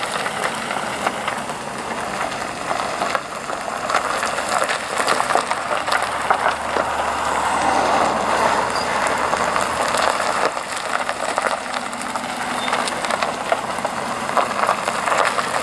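Vehicle noise, with a low engine hum from about five to ten seconds in over a steady haze of outdoor noise with small clicks.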